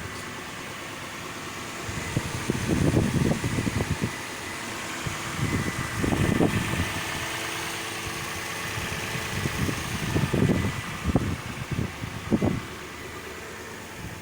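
Toyota Celsior's 3UZ-FE V8 engine running steadily at idle, with a thin steady high tone above the engine noise. Irregular gusts of wind rumble on the microphone come and go several times.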